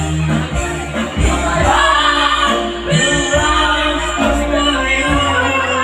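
A woman singing a slow love ballad over band backing, holding long wavering notes.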